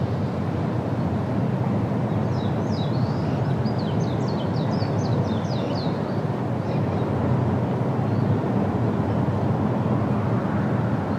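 A small songbird sings a fast run of short, high chirps for a few seconds, starting about two seconds in. Under it is a steady low rumble of wind on the microphone.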